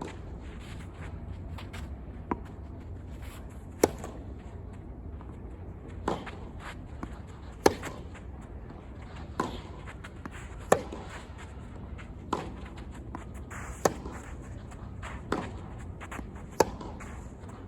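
Tennis rally: a ball hit back and forth with rackets, about one sharp pop every second and a half, alternating louder and softer as the near and far players strike, with fainter bounces and footsteps between.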